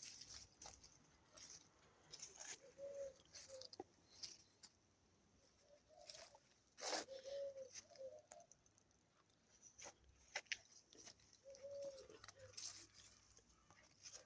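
Faint bird cooing in short phrases repeated every few seconds, with footsteps and rustles of someone walking over debris, the sharpest about seven seconds in.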